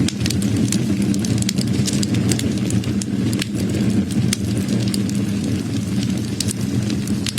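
Burning wood crackling: frequent, irregular sharp pops and snaps over a steady low rumble of the fire.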